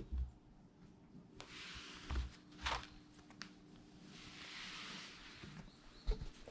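Soft rustling swells and a few light thumps from cats pouncing on and batting a string toy, over a faint steady hum.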